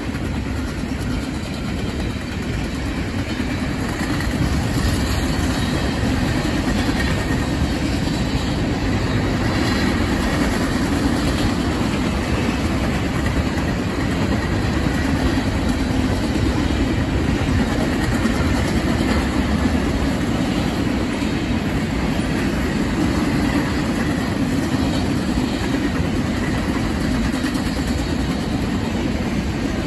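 A CSX freight train's hopper cars rolling past, their steel wheels running on the rails with a steady rumble that gets a little louder about four seconds in.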